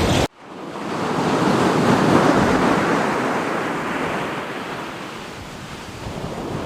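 Sea waves surging onto a shore: after an abrupt cut near the start, a wave swells to a peak about two seconds in, then washes back and fades, with the next surge beginning near the end.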